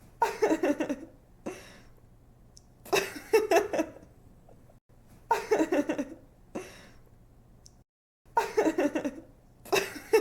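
A young woman laughing in short giggling bursts, each under a second, with quick breaths between, the laugh repeating about every two and a half seconds as a loop.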